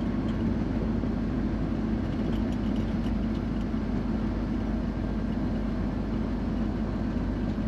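Steady drone of a semi truck's diesel engine and road noise, heard from inside the cab while cruising on the highway.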